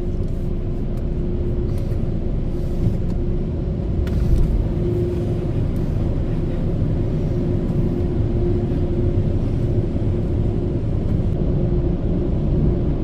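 Car idling: a steady low rumble with a steady hum running through it.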